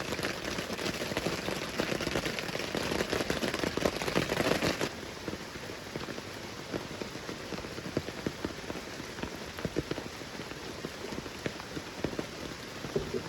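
Rain falling in a dense patter of drops. About five seconds in it drops abruptly to a lighter patter with scattered individual drops.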